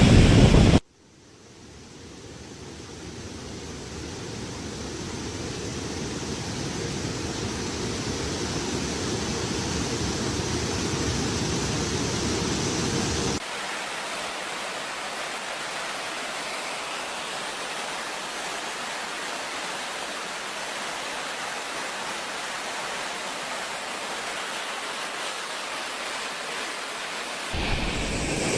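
Steady rushing of heavy water pouring from a dam spillway, in several clips cut together. It drops out and swells back up about a second in, loses its deep rumble abruptly near the middle, and changes again just before the end.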